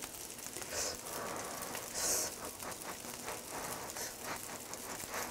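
Dumpling fried rice sizzling faintly in a hot frying pan, with a steady hiss and many small crackles.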